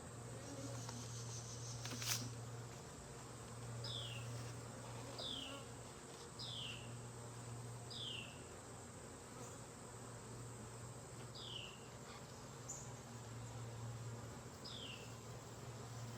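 Honeybees buzzing around an open hive, a steady low hum that swells and fades. A bird repeats a short, high, falling call six times, and there is one sharp click about two seconds in.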